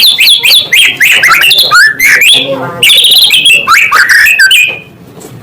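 White-rumped shama (murai batu) singing loud, rapid phrases of whistled glides, quick down-sweeps and trills, breaking off shortly before the end.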